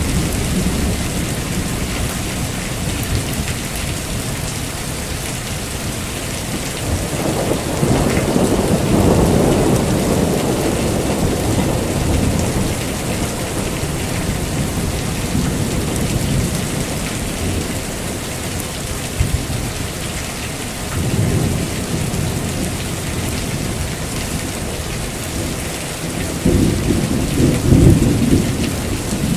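Heavy rain falling steadily with rolling thunder: low rumbles swell up about seven seconds in, again around twenty-one seconds, and loudest near the end.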